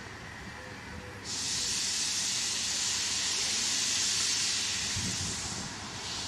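Steam locomotive venting steam: a faint hiss, then a loud hiss of escaping steam that starts suddenly about a second in, holds for about four seconds and eases off near the end.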